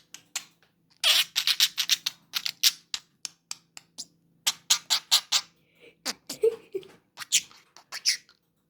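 Budgerigar chattering: quick runs of short, scratchy chirps and clicks, with a short pause about halfway through.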